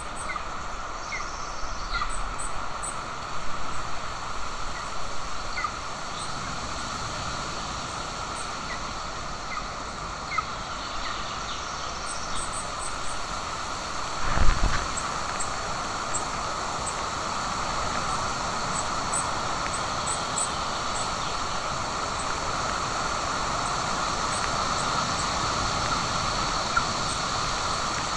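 Outdoor nest-camera ambience: a steady hiss of wind and open microphone, with faint, short, high bird chirps scattered throughout. A single dull thump comes about halfway through.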